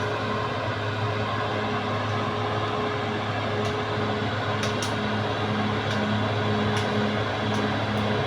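Caterpillar D6R XL bulldozer's diesel engine running steadily under work, with a constant whine over the engine hum and a few sharp clicks.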